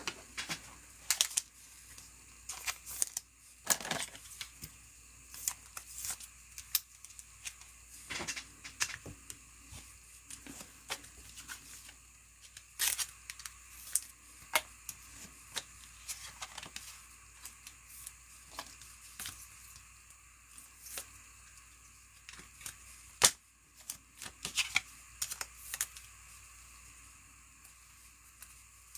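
Trading cards and foil packs being handled up close: scattered clicks, taps and rustles of cards being slid, stacked and sorted, with a sharp snap about 23 seconds in.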